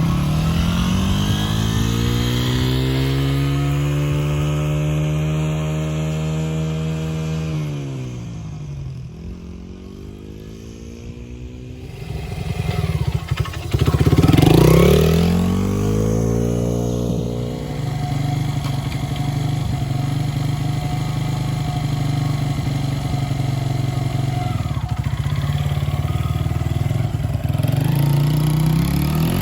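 Honda XR100R dirt bike's single-cylinder four-stroke engine being ridden: it revs up and holds, fades away, then comes back loudest about halfway through, its pitch dropping as it goes past, and runs on steadily afterward.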